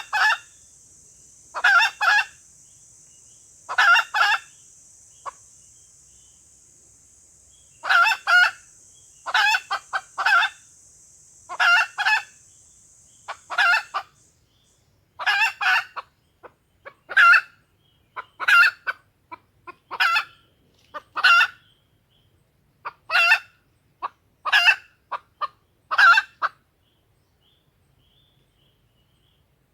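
Junglefowl hen calling, played as a lure to draw wild junglefowl: short clucking notes in pairs and threes every second or two, stopping about 26 seconds in. A steady high hiss sits under the calls and cuts off about halfway through.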